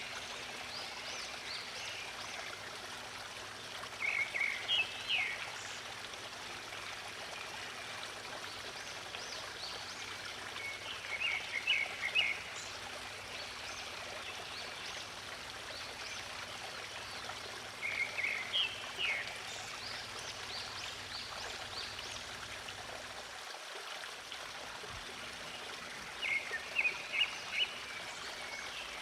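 Steady rush of a flowing stream, with a small songbird singing a short phrase of quick high notes four times, about every seven seconds.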